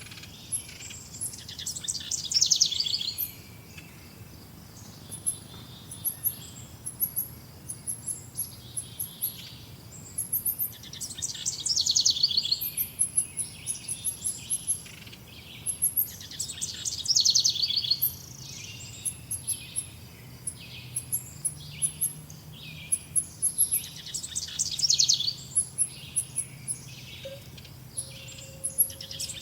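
Birds singing outdoors: a loud, fast-trilled song phrase comes back every few seconds. Between the phrases, many short, very high chirps run on.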